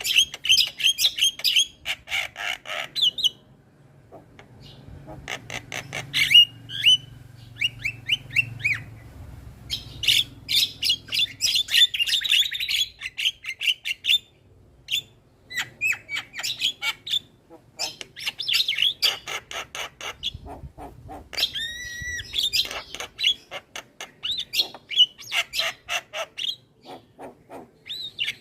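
Javan mynas singing vigorously: bursts of rapid harsh chirps and clicks broken by short pauses, with a few clearer whistled notes about two-thirds of the way through.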